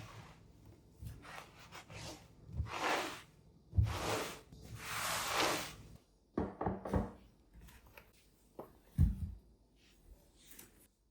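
Household cleaning sounds: rubbing strokes over a surface, two of them longer, about three and five seconds in, between light knocks of objects being handled and set down.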